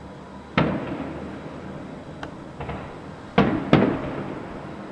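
Aerial fireworks bursting: a sharp bang about half a second in, a couple of smaller cracks a little after two seconds, then two loud bangs in quick succession around three and a half seconds in, each trailing off in a rolling echo.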